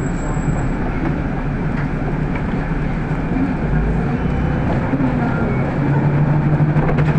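City bus cabin noise while under way: a steady rumble of motor and road, with a low hum that grows a little louder about six seconds in.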